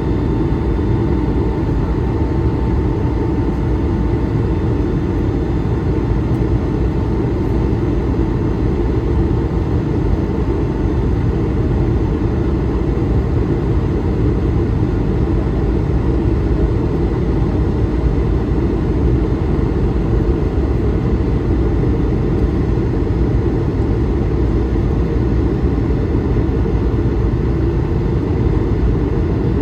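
Steady cabin noise of an Airbus A220-300 under power, with the deep rumble of its Pratt & Whitney PW1500G geared turbofans and air rushing past the fuselage, and a faint steady whine through the first part.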